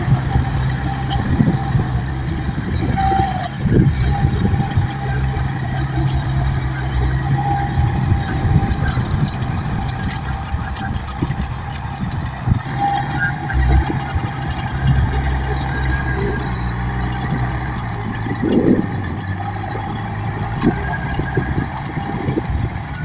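Dump truck's diesel engine running steadily under work, with short single beeps every few seconds and a few brief thumps.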